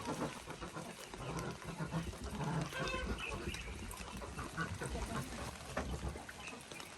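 Ducks quacking in short, scattered calls while being caught by hand, amid irregular knocks and rustling.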